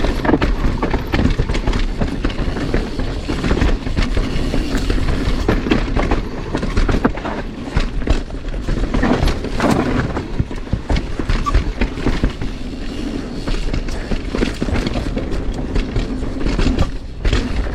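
Mountain bike rolling fast down a dirt trail, with steady tyre noise and constant rattling and knocking of the bike over rough ground.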